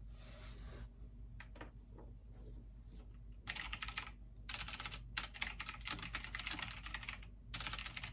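Computer keyboard typing: after a quiet start, rapid runs of keystrokes begin about three and a half seconds in, broken by short pauses.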